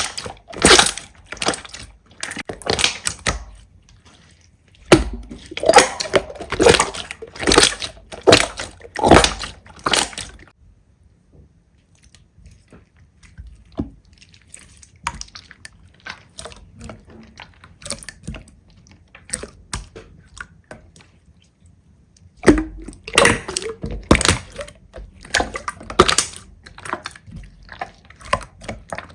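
Slime being squeezed and poked by hand: quick trains of wet, sticky clicks and squelches, going much softer to faint crackles for a stretch in the middle before picking up again.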